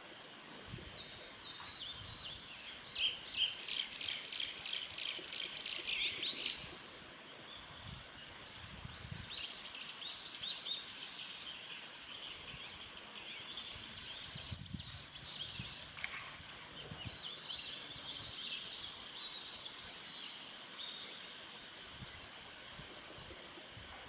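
Wild bird calls: a fast run of sharp, high repeated notes, loudest a few seconds in, then several shorter bursts of chattering notes, over a steady high-pitched background hiss.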